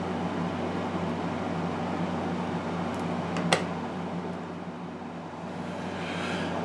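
Steady low mechanical hum with one sharp click about halfway through.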